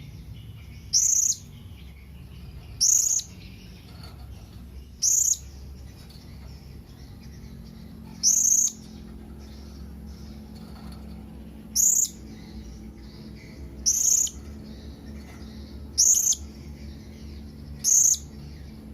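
Blue-crowned hanging parrot (serindit) giving its contact call: short, high-pitched calls repeated every two to three seconds, about eight in all.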